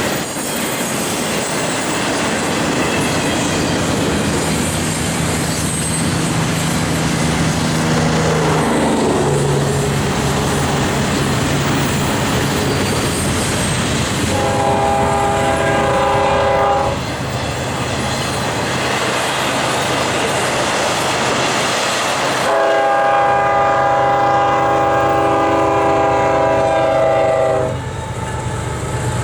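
Union Pacific double-stack freight train rolling past, its wheels clicking and rumbling over the rails. The locomotive's multi-chime horn sounds twice, a short blast about halfway through and a longer one soon after, warning a grade crossing.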